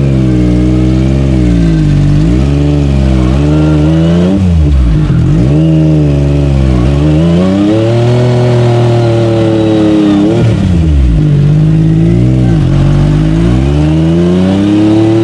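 Side-by-side UTV engine revving in repeated surges, its pitch rising and falling every second or two as the throttle is worked.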